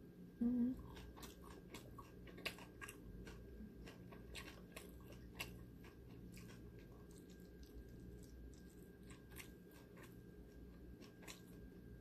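A person chewing a mouthful of food close to the microphone, with small irregular mouth clicks and smacks. There is a brief hum about half a second in.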